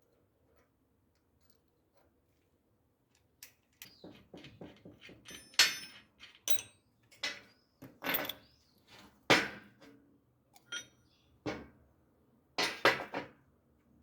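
Irregular knocks and clinks of hard objects being handled, a few ringing briefly. They start after a few seconds of quiet.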